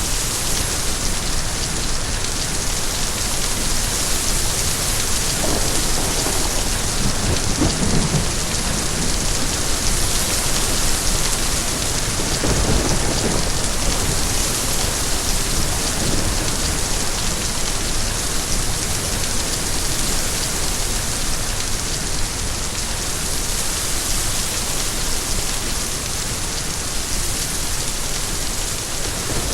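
Steady heavy rain falling on a surface, with low rumbles of distant thunder swelling up twice in the first half.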